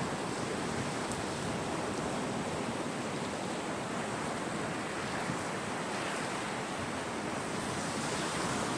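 Sea surf washing in a steady, even rush, with some wind. One faint sharp click about a second in.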